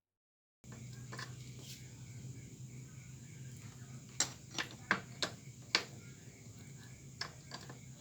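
A handful of sharp clicks and knocks, bunched together about four to six seconds in, over a steady low hum and a faint high steady buzz. The sound begins about half a second in, after silence.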